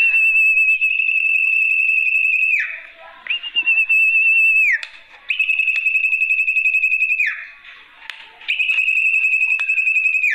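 Lure call for the sertu (zepo) bird: four long, high whistled notes, each held steady with a slight waver and broken by short pauses, the second ending in a quick downward slide.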